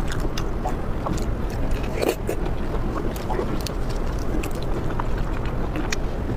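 Close-miked eating sounds: chewing and biting with frequent small wet mouth clicks, over a steady low background hum.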